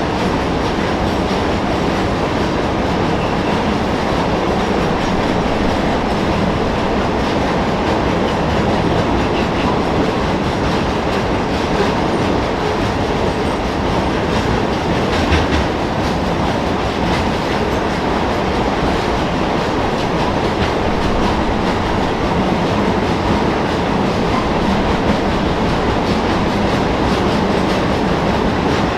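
A loaded ore train of ore jenny cars rolling past, its wheels clattering steadily over the rail joints, with one brief louder clank about halfway through.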